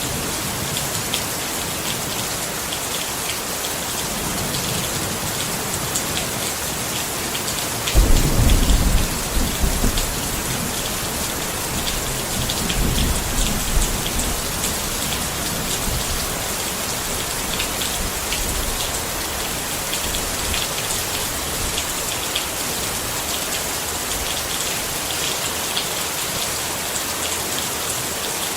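Steady rain falling on a tent. A sudden crack of thunder about eight seconds in rumbles for a couple of seconds, and a weaker rumble follows a few seconds later.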